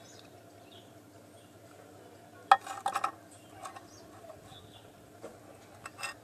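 Sharp knocks and clatter of small hard parts being handled. There is a quick cluster about two and a half seconds in and a couple of lighter knocks later, over a faint steady background hum.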